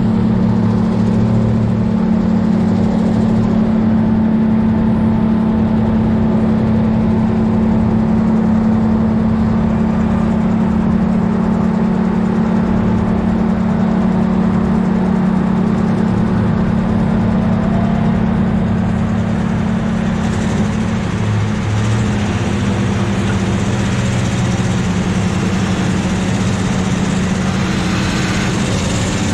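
Log truck's diesel engine running steadily, a continuous low drone that shifts slightly in pitch about two-thirds of the way through.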